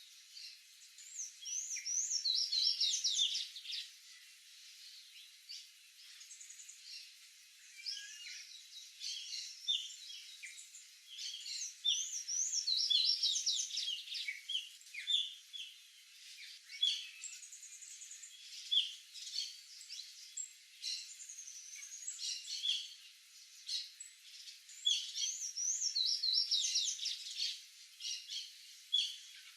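Small songbirds singing and calling: several bursts of quick, squeaky high notes that rise and fall, each lasting a couple of seconds, with single chirps in between.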